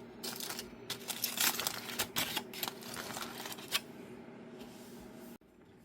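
Dense, irregular clicking and rustling from objects being handled, thinning out toward the end, over a steady low hum. The sound drops off abruptly about five seconds in.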